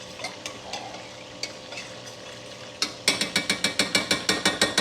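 Metal spoon stirring sauce in a pan, first with quiet scraping and a few clicks over a faint frying sizzle. About three seconds in it breaks into a fast, even run of ringing clinks, about five a second, as the spoon beats against the pan.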